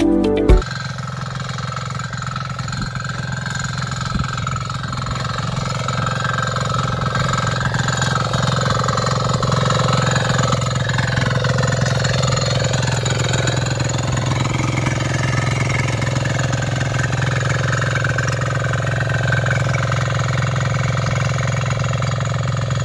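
Kisankraft KK-IC-250D power weeder's single-cylinder 247 cc diesel engine running steadily.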